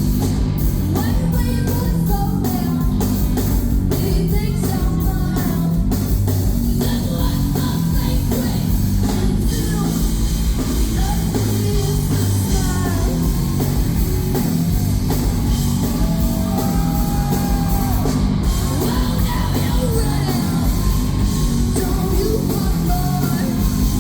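Live heavy punk-rock band playing loud, with guitars, a pounding drum kit and a singer singing and yelling over them.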